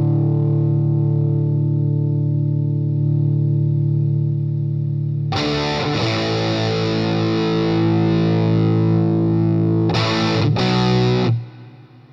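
Electric guitar (Siam Custom) played through a DemonFX Jan Ray overdrive pedal, with chords left to ring and sustain. A new chord is struck about five seconds in and another near ten seconds, then the sound is cut off shortly before the end, leaving a faint fading tail.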